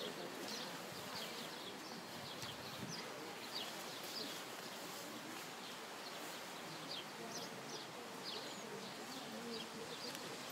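Small birds chirping: short, high chirps scattered irregularly over a steady background hiss.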